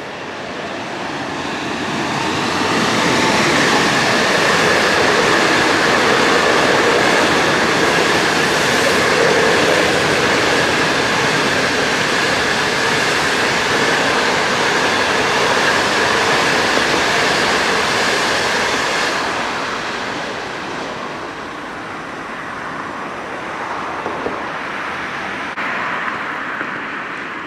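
A train running past at close range, its noise building over the first few seconds, holding loud with a steady high whine, then falling away about two-thirds of the way in.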